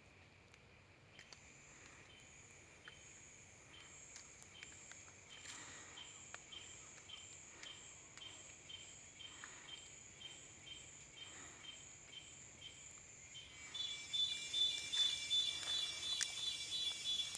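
Insects chirping in a steady rhythm, about two high pulses a second. About fourteen seconds in, a louder, denser insect buzz with a steady high tone joins them.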